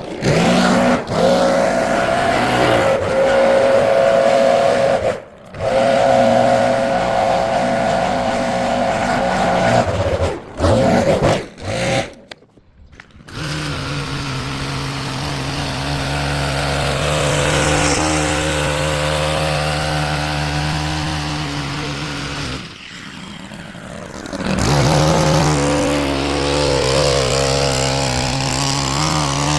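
Small-engine lawn-care power equipment running loudly, cutting out briefly several times in the first half, then running steadier and lower-pitched from about halfway through.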